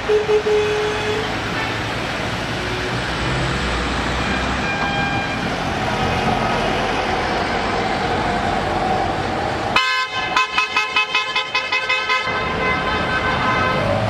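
A car horn tooting in a quick series of short blasts, about four a second for roughly two and a half seconds, near the end. It plays over the steady running of vehicle engines. A brief single tone sounds at the very start.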